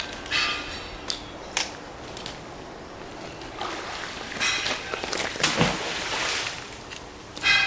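Several short metallic clinks and rings from scrap iron being handled off a fishing magnet, with water splashing and sloshing, loudest a little past halfway.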